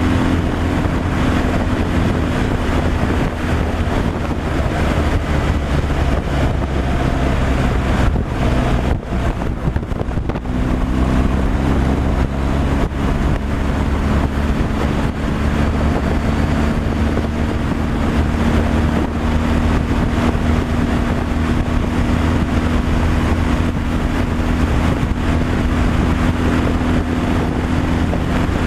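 Truck engine running steadily at road speed, with wind and road noise. The sound dips briefly about nine to ten seconds in, then carries on as before.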